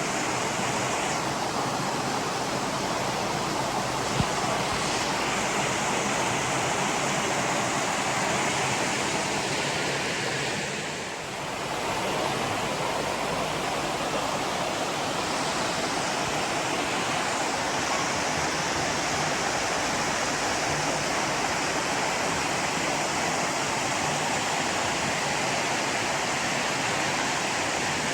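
Waterfall rushing: a steady noise of falling water, easing briefly about eleven seconds in, with a single sharp click about four seconds in.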